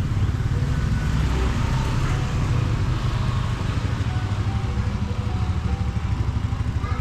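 Street traffic: a motorbike engine running close by, a steady low rumble that flutters quickly, with faint music.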